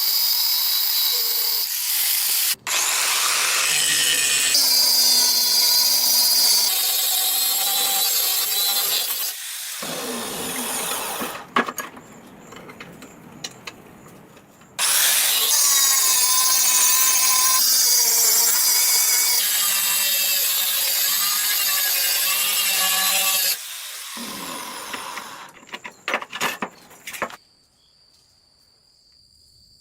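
A power tool grinding or sanding under load in long stretches, stopping for a few seconds in the middle. It cuts out with a few clicks near the end, leaving a faint steady high whine.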